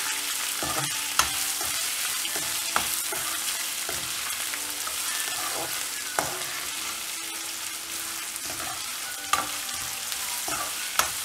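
Chopped onions with fried chana dal, urad dal and dried red chillies sizzling steadily in hot oil in a kadai while a steel slotted spatula stirs and scrapes through them, with a few sharper clinks of the spatula against the pan.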